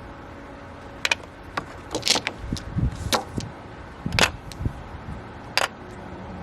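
Mahjong tiles clicking and clacking against one another and the table, a series of sharp irregular clicks as tiles are picked out and set down for a pass.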